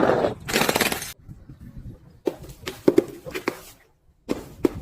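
Glass being crushed: a noisy crunch about half a second in, then a series of sharp cracks and clinks of breaking glass and shards.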